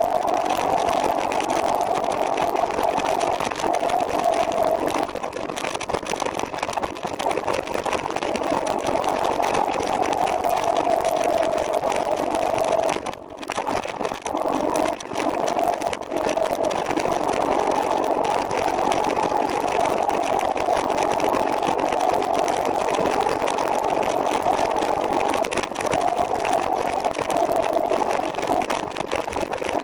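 Steady whirring of a recumbent trike rolling along a paved path, from its tyres and drivetrain, dipping briefly about halfway through.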